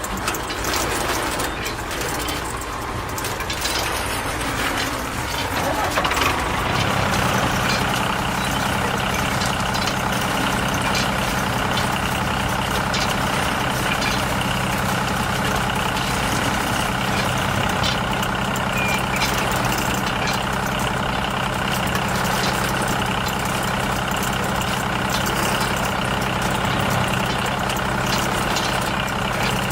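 An engine running steadily at idle, a constant even hum that settles in about six seconds in.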